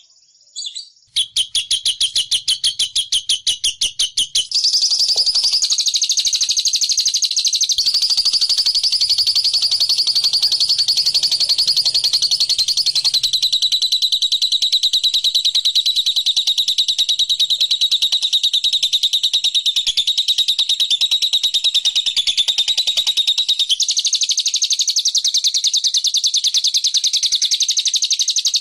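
Lovebird 'ngekek' call: high chirps in quick succession that, about four seconds in, run together into one long, unbroken rapid rattling trill.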